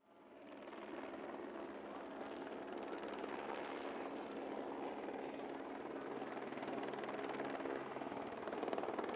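Helicopter running: steady turbine and rotor noise with a few held tones. It fades in over the first second, then holds steady.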